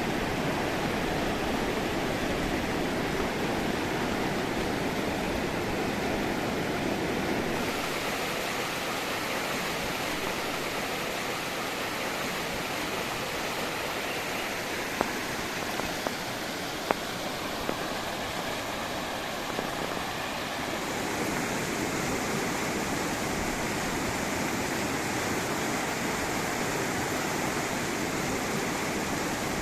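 Flowing river water rushing over a cascade, a steady noise whose tone shifts twice, about 7 seconds in and about 21 seconds in. A few sharp clicks stand out around the middle.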